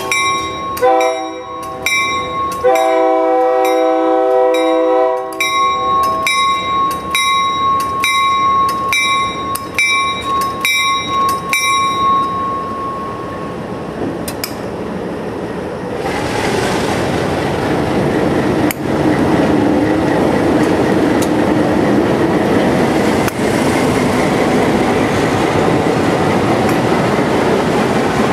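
ALCO RS-18 diesel locomotive's multi-chime horn sounding several blasts, the last one long, over a grade-crossing bell ringing about twice a second. The horn stops about five seconds in and the bell about halfway through; then the locomotive and its passenger coaches roll past with a steady rumble of wheels on rail.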